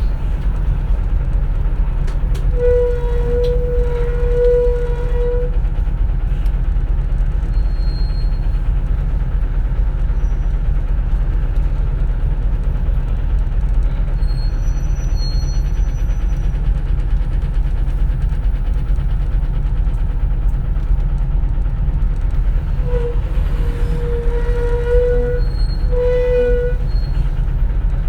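Steady low rumble of a CNG city bus on the move, heard from inside the cabin. A held, pitched tone sounds for about three seconds a few seconds in, and again near the end.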